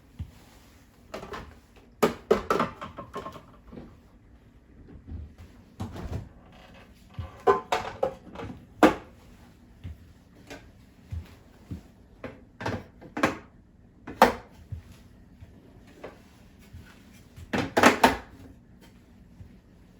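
Household handling sounds from refrigerator cleaning: irregular knocks, clicks and clatters of things being moved and set down, coming in short clusters with a busy run near the end.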